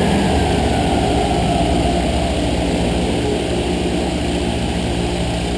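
2008 BMW 335i's 3.0-litre inline-six, converted to a single turbo, running steadily on a chassis dyno while a faint whine falls in pitch over the first couple of seconds as it winds down; the level eases off gradually.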